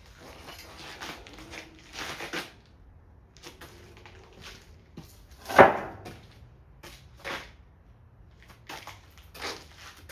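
Timber and hand tools being handled: scattered light knocks and rustling, with one sharp, loud knock about halfway through.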